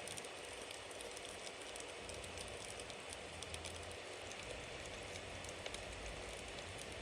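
Bonfire burning: a steady hiss scattered with many small crackles and pops, over a low rumble.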